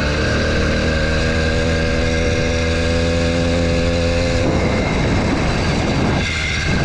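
80cc two-stroke bicycle engine running hard under way, holding one steady pitch for a few seconds before its tone breaks up and wavers about four and a half seconds in.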